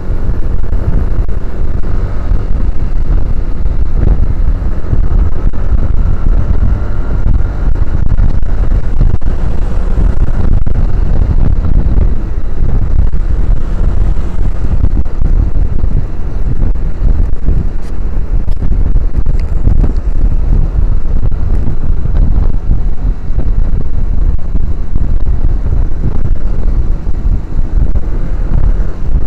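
Heavy wind buffeting on a sports camera's microphone while riding a motorbike at speed, a steady low rumble with engine and road noise underneath.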